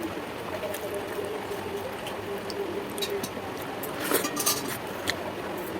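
Eating sounds from a person eating at a plate: scattered small mouth and dish clicks, with a short cluster of sharper clinks and clicks about four seconds in, over a steady background hiss.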